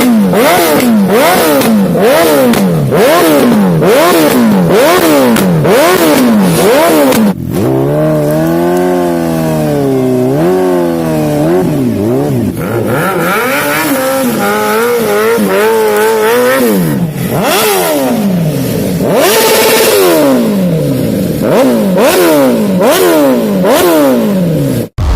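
Superbike engines revved hard again and again, the pitch shooting up and dropping back about one and a half times a second at first, then in slower, longer revs after a sudden change about seven seconds in. It sounds like several separate clips of bikes being revved, joined one after another.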